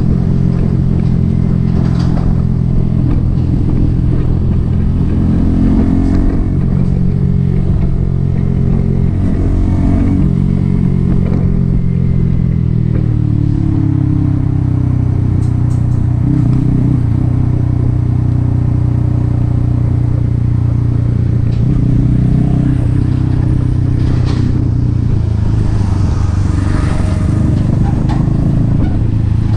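Yamaha XSR 155's single-cylinder engine through an aftermarket M4 exhaust, under way on the road. The pitch rises and falls with throttle and gear changes for about the first half, then holds steady at a cruise.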